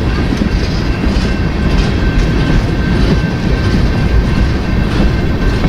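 Freight train rolling past, a steady loud rumble with wheels clattering over the rail joints and a faint steady high whine above it.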